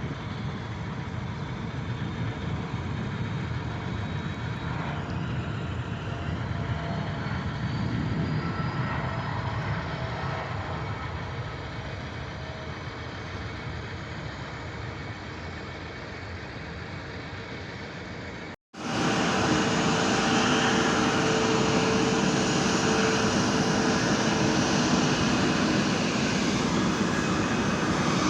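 Jet airliner engines running, a steady rush with faint whining tones. About two-thirds of the way through it cuts off abruptly, then resumes as a louder, steady jet engine rush with a held tone.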